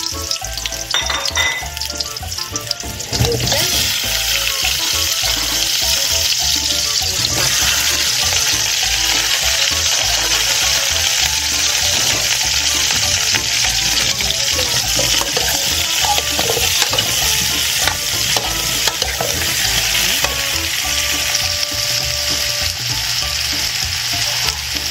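Chunks of green banana, potato and yuca frying in olive oil in a large aluminium pot: a steady sizzle that grows louder about three seconds in, with a spoon stirring and a few knocks of food and utensil against the pot.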